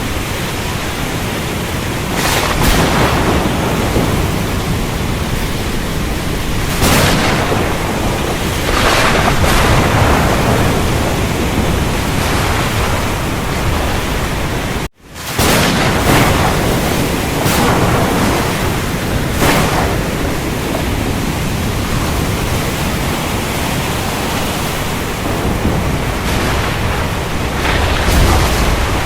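Thunderstorm: steady heavy rain with several rolls of thunder that swell and fade. The sound drops out for a split second about halfway through.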